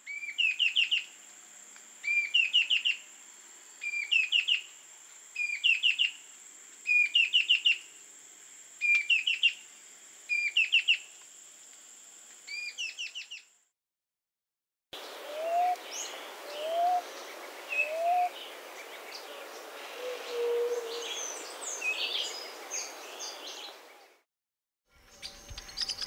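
A small antbird sings a short phrase of quick rising notes, repeated about every second and a half for eight repeats, over a steady high-pitched whine. After a brief gap, a second recording follows with scattered chirps of other birds and three low rising whistles in a row.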